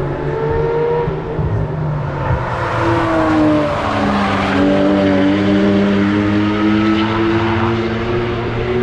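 Cars driving through a corner, several engines at once, their pitch falling and rising as they slow and accelerate. The loudest car passes about three to five seconds in.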